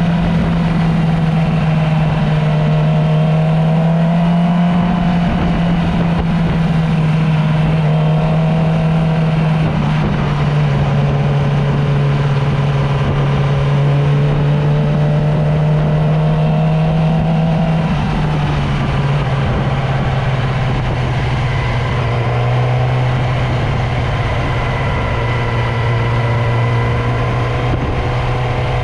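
Motorcycle engine running steadily while riding, over a steady rushing noise. Its note drops a step about a third of the way through and again about two-thirds of the way through.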